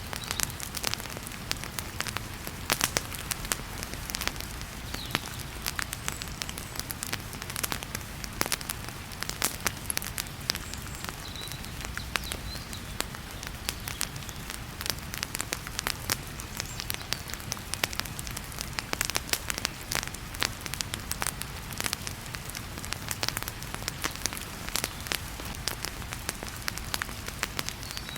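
Wood fire crackling with frequent sharp pops and snaps, over a steady rush of heavy rain.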